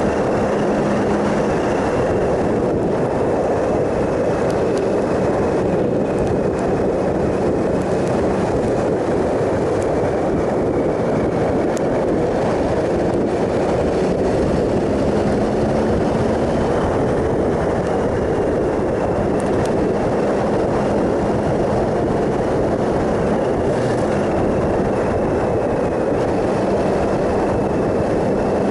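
Triumph Sprint ST 1050 three-cylinder engine running at a steady cruise, its even hum under dense wind and road noise.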